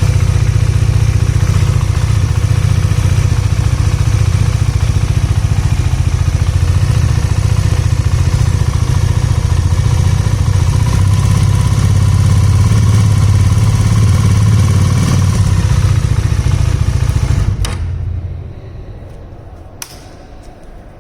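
Single-cylinder engine of a 2019 Bajaj Dominar motorcycle running steadily, with the engine ticking that the owner took for a fault; his later update judges it normal by design. The engine shuts off about 17 seconds in, followed by a couple of sharp clicks.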